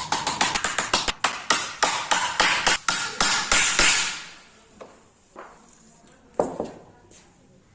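Rapid tool strikes on wood, about four or five a second, such as hammering or tapping in woodworking, for about four seconds, then a few single scattered knocks.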